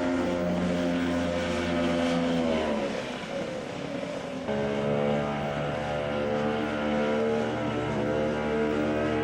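Carniti racing outboard motor running at steady speed. About two and a half seconds in its pitch falls and it fades, then it comes back suddenly at a steady pitch and keeps running.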